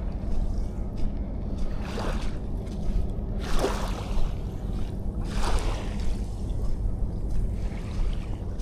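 Small waves washing up the sand, three rushing swells of water over a steady low wind rumble on the microphone.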